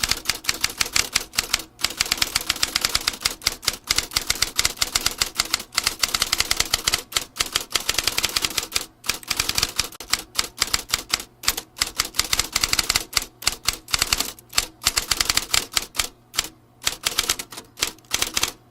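Vintage typewriter being typed on at a brisk pace: a fast, uneven run of sharp key strikes with a few short pauses.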